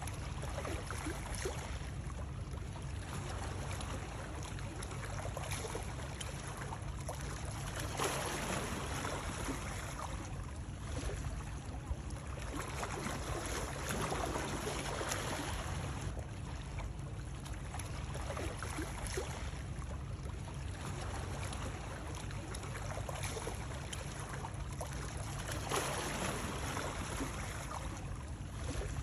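Continuous rush of moving water, with a heavy low rumble underneath and swells every several seconds.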